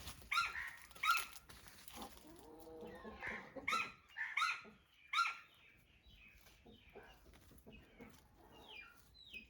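Pet green parrot giving a string of short, separate squawks, a few falling in pitch near the end.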